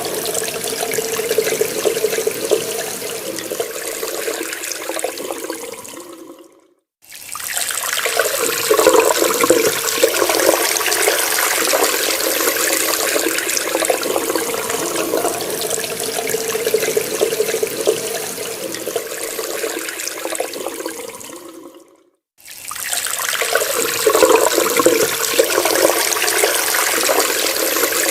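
Water running from a tap in a steady splashing stream. It fades out briefly and comes back twice, about a quarter of the way in and again about three-quarters of the way in.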